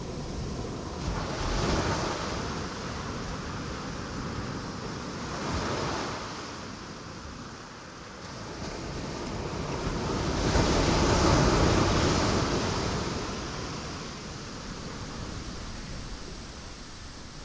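Ocean waves breaking on rocks in three slow surges that swell and fall away, the third, about two-thirds of the way through, the loudest and longest.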